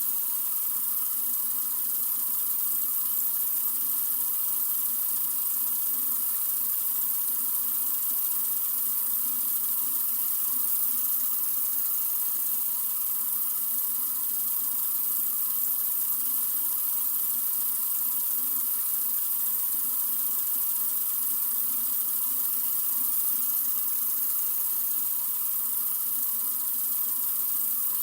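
Water from a sink faucet running in a steady, continuous stream, a constant hiss with no changes.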